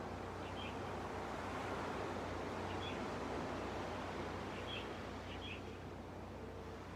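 Gentle sea waves washing onto the beach as a steady soft rush, with a few short bird chirps, about four, scattered through it.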